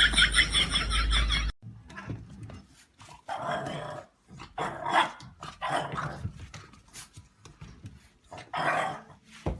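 A loud, rapidly repeating sound cuts off suddenly about one and a half seconds in; then a dog vocalizes in several short growls and barks separated by pauses, the strongest one shortly before the end.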